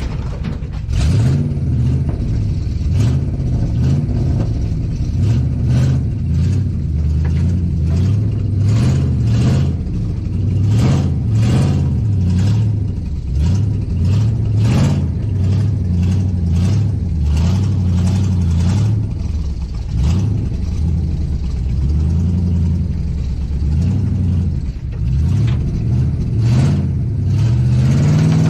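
A Dodge pickup's engine revving up and falling back over and over as the truck is driven under load up onto another truck, with scattered knocks.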